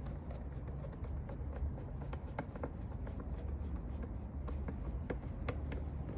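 Scattered light clicks and knocks of parts being handled and fitted into place, over a steady low rumble.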